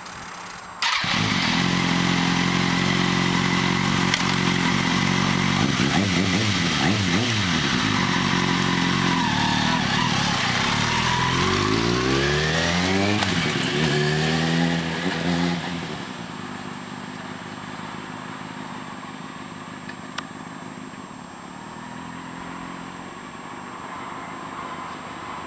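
Kawasaki Ninja ZX-6R 636 inline-four sport bike engine firing up about a second in and idling loudly. About halfway through it accelerates away, its pitch rising again and again as it pulls through the gears, then it drops to a fainter engine sound as the bike moves off into the distance.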